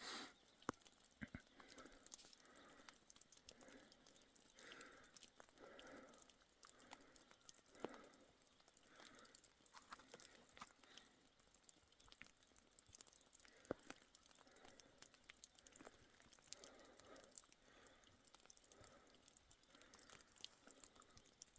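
Faint crunching and rustling in soft, uneven strokes about once a second, with scattered light clicks.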